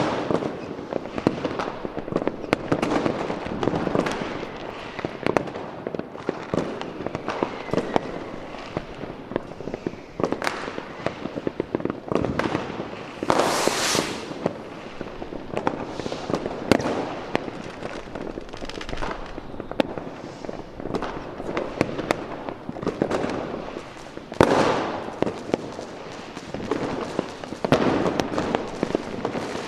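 Fireworks going off in a dense, continuous barrage of bangs and crackling, with a loud hissing burst about halfway through.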